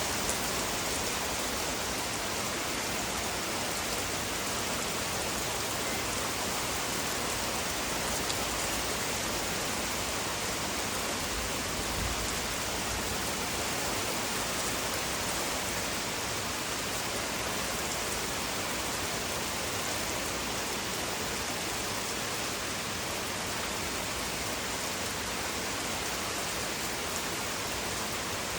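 Steady rain falling during a thunderstorm, an even continuous hiss.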